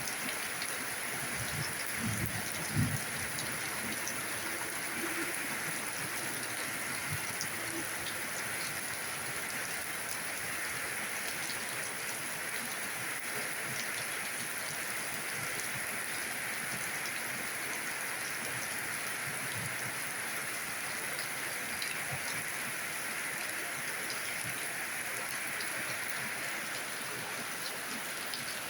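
Steady rain falling, an even hiss of drops pattering on surfaces, with a few low thuds about two to three seconds in.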